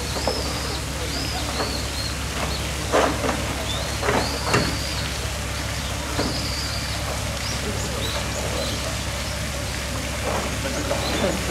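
Short, high chirps of a small bird repeating over a steady hiss like running or splashing water and a low hum, with a few sharp knocks about three and four and a half seconds in.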